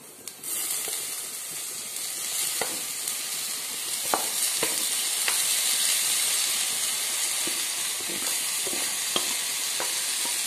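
Wet mashed banana flower mixture sizzling in hot tempering oil in a steel pan. The sizzle starts about half a second in and holds steady, with a few sharp taps and scrapes of utensils against the pan.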